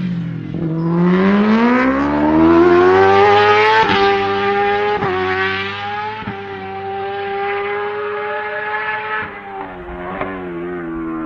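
Racing motorcycle engine at full throttle on track: the revs drop, then climb steeply for a few seconds, then hold high with several short dips as gears are changed.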